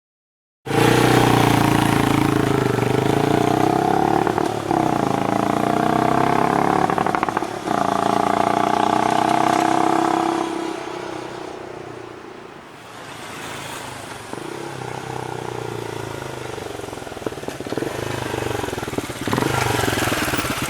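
Motorcycle engine accelerating hard, its pitch climbing and then dropping at two gear changes, about four and a half and seven and a half seconds in. It then eases off to a quieter run before picking up again near the end.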